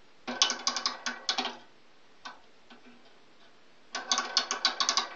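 Rapid ratchet-like clicking and rattling from a handmade riveted metal model helicopter as it is handled: a run of clicks about a second long, then a second run starting about four seconds in.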